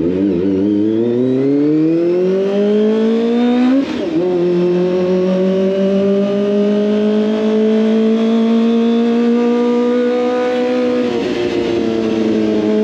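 Kawasaki ZX25R inline four-cylinder engine through an SC Project exhaust, accelerating with its pitch climbing. It shifts up about four seconds in, climbs again more slowly, and shifts up a second time near the end.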